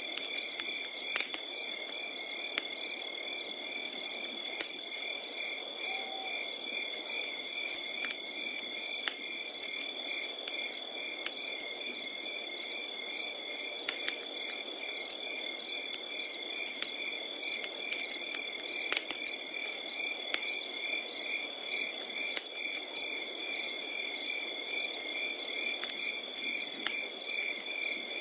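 Crickets calling without pause, a steady high trill with evenly pulsing chirps over it, above a crackling wood fire that gives off scattered sharp pops over a low hiss.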